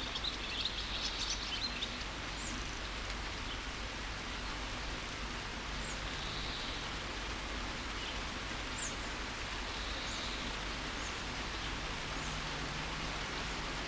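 Steady rain falling, with birds chirping over it: a quick burst of twittering in the first two seconds, then single short high chirps every few seconds.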